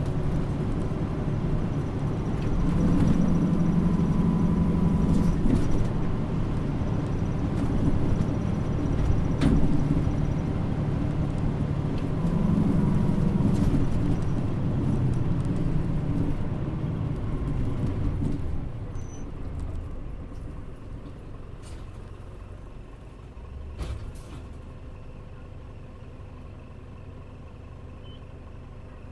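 Mitsubishi Fuso KL-MP35JM bus heard on board: the diesel engine pulling hard, its note stepping with gear changes. About two-thirds through the engine drops away as the bus slows, with a brief burst of noise near the end, and it settles to a quiet idle.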